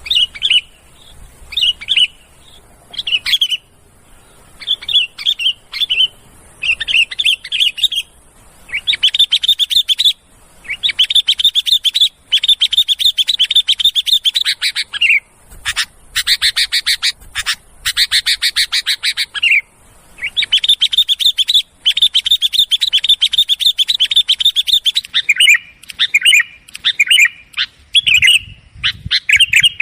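Sooty-headed bulbul calling: short chirpy phrases in the first few seconds, then long runs of rapid chattering notes through the middle, and short separate phrases again near the end.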